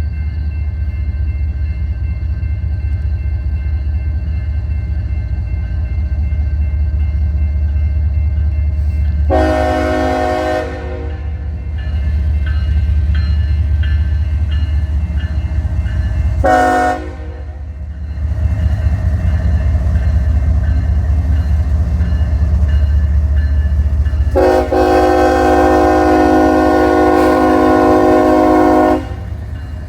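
Diesel locomotive sounding its multi-chime air horn over the steady deep rumble of its engine: a long blast, a short one, then a long held blast.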